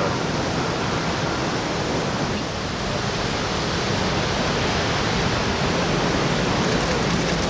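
Steady rushing noise of wind and ocean surf, even and unbroken, with no clear waves breaking or rising.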